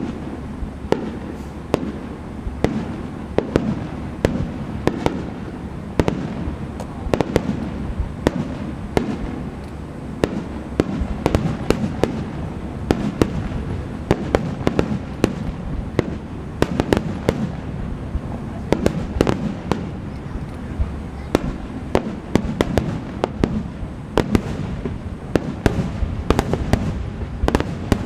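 Aerial fireworks bursting in a dense barrage: many sharp bangs in quick succession over a continuous low rumble of booms. The bangs come thickest near the end.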